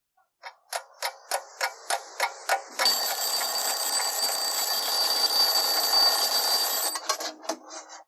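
Mechanical alarm clock ticking about three times a second, then its bell ringing steadily for about four seconds before stopping, and the ticking carrying on.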